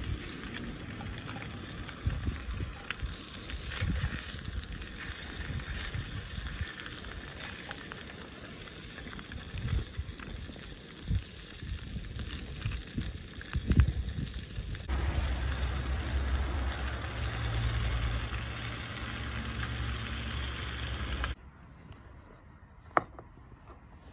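Food frying in butter in a pan, a steady sizzle with scattered sharp pops. About two-thirds of the way through the sound changes abruptly to a steadier hiss with a low hum, then it drops suddenly to quiet, with one click near the end.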